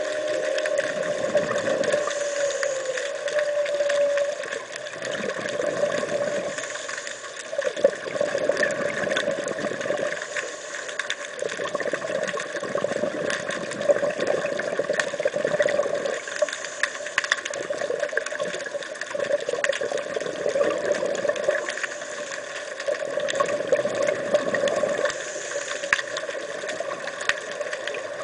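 Underwater: a scuba diver's exhaled bubbles gurgling out of the regulator in bursts every few seconds, over a steady hum.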